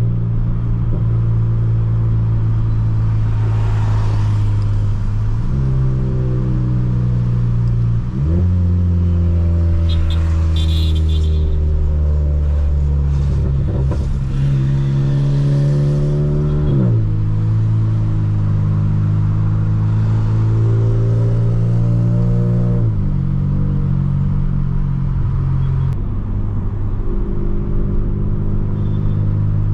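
Stage 2 tuned Volkswagen Polo GTS with a sport exhaust driving at low cruising revs. Its steady hum steps up and down in pitch every few seconds as the revs change, rising briefly in a short build of revs about two thirds of the way through.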